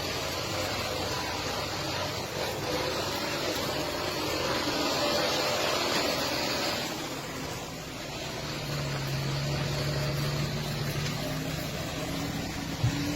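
Truck engine running with road and mechanical noise, the pitch shifting as it works. Louder for a few seconds around the middle, with a single sharp click near the end.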